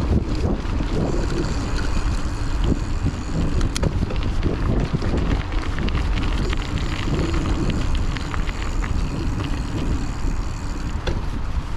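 Steady wind buffeting the microphone of a chest-mounted action camera on a moving hardtail bike, with scattered small clicks and rattles from the bike.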